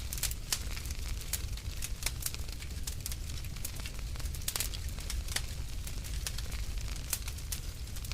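Wood fire burning in a fireplace, crackling with irregular sharp pops and snaps over a low steady rumble.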